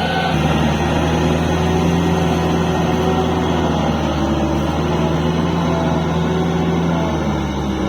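Kubota L4503 tractor's diesel engine running steadily under load, with a slight change in engine note just after the start and a small drop in level near the end.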